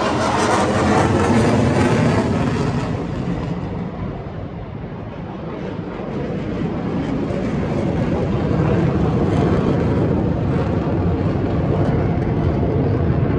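Aircraft flying over: a loud rush of engine noise that eases off about four seconds in, then builds again with a steady low hum.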